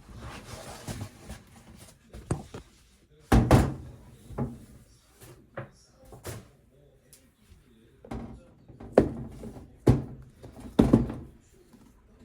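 A series of irregular knocks and thuds, the sound of things being handled and set down in a kitchen, with the loudest thuds about three seconds in and again around nine seconds.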